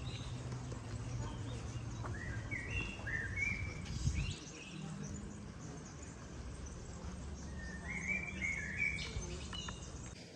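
Small birds chirping in short runs of quick stepped notes, twice, over a steady low outdoor hum. A brief knock sounds about four seconds in.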